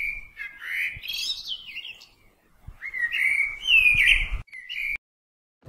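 Bird chirping and warbling in two phrases, the second louder, with a short last chirp before it cuts off suddenly near the end.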